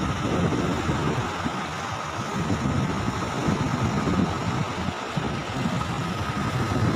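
A motor vehicle engine running steadily, with wind rumbling on the microphone.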